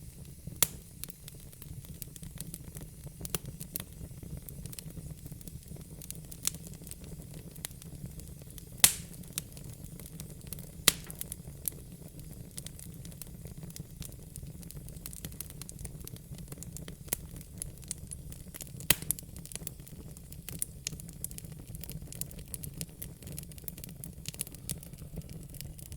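Burning wood in a fire pit crackling, with irregular sharp pops, the loudest about nine, eleven and nineteen seconds in, over a steady low rumble.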